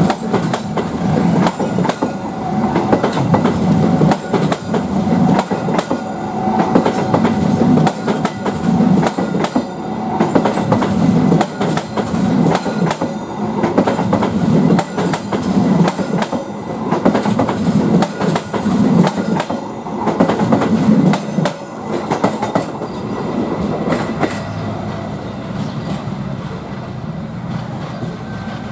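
A passenger train passing close by, its wheels clattering over the rail joints in an even beat of about one clack a second. A little after twenty seconds the clatter stops and the rumble fades away as the train moves off.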